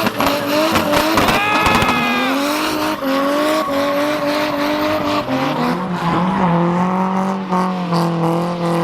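Drift cars on track, engines revving hard with the pitch rising and falling as the drivers work the throttle, and tyres squealing as the cars slide. About halfway through, a deeper engine note climbs and then holds.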